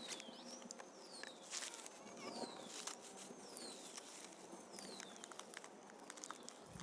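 A bird calls a repeated falling whistle, about one note a second, with scattered faint clicks over a quiet outdoor hiss.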